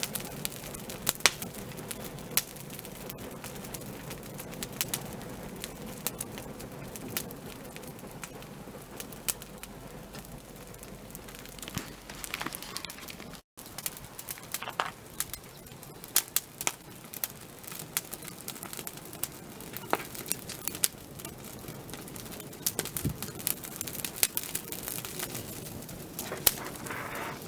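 Wood fire crackling, with frequent sharp, irregular pops over a steady hiss of burning. The sound drops out for a moment about halfway through.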